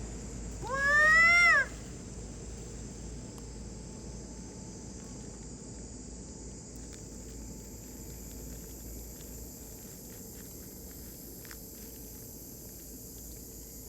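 One high, drawn-out animal call, rising and then falling in pitch, lasting about a second, followed by steady background hiss.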